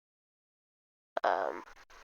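Dead silence, then about a second in a short breathy vocal sound from the speaker that falls in pitch and fades out.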